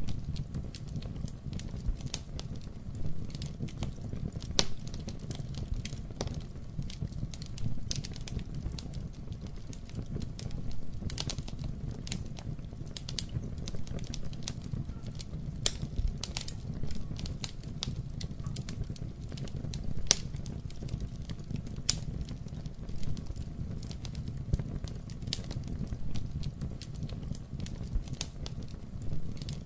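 Campfire burning: a steady low rumble from the flames, with irregular sharp crackles and pops from the burning wood.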